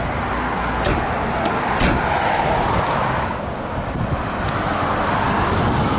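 Steady road-traffic noise, swelling slightly about halfway through, with a few faint clicks on top.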